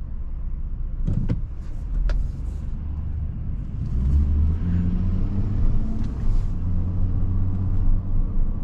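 Ford F-150 pickup driving, heard from inside the cab: a steady low engine and road rumble that grows louder about four seconds in as the truck picks up speed.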